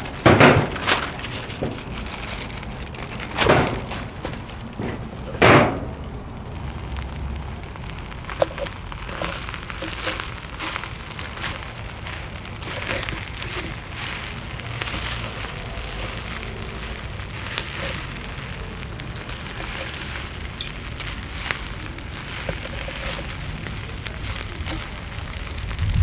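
Oak-wood fire crackling and popping, with a few louder knocks in the first six seconds.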